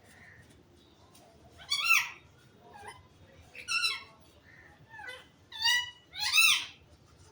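Pet parrot giving four loud, short calls, each rising and falling in pitch, the last two close together near the end.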